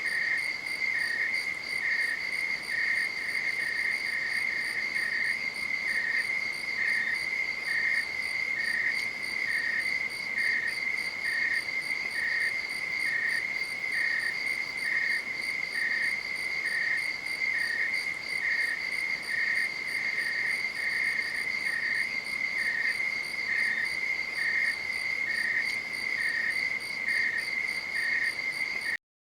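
Crickets chirping at night: a fast, steady high-pitched trill, with a second, slightly lower chirp repeating about twice a second. The sound cuts out for a split second near the end.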